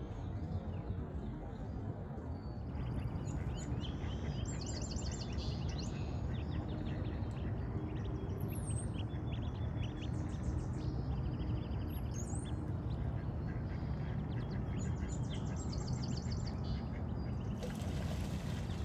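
Wild birds calling, with repeated rapid chattering trills high in pitch, over a steady low background rumble.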